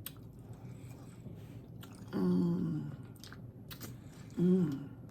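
Close-up eating sounds of a crispy tostada being bitten and chewed, with a few sharp crunchy clicks. Two short hums through a full mouth come about two seconds in and again near the end.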